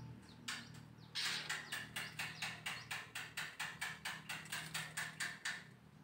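A bird calling a rapid run of sharp, repeated notes, about four or five a second, starting about a second in.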